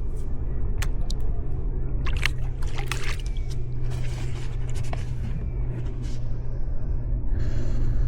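Steady low rumble with irregular splashes and drips of water, typical of sea-kayak paddle strokes; the splashes cluster a couple of seconds in.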